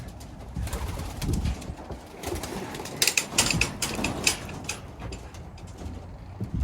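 Racing pigeons cooing in the loft, with a run of sharp clatters about three seconds in, as the birds are let out of the loft.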